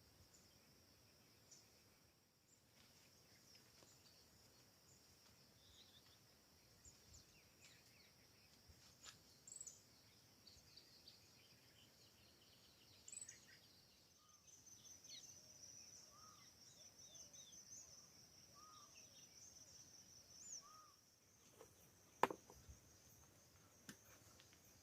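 Faint forest ambience: scattered short bird chirps over a steady high-pitched trill, with one sharp click near the end.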